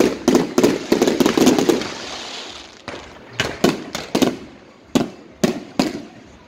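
Aerial fireworks exploding: a fast cluster of bangs with crackling in the first two seconds that dies away, then single sharp bursts every half second or so.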